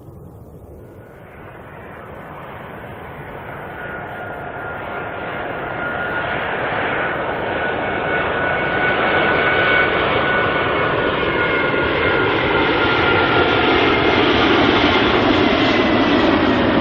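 Four-engined Airbus A380 jet airliner approaching, its engine noise growing steadily louder over about ten seconds and then holding loud, with a high turbine whine that slides slowly down in pitch as it comes near.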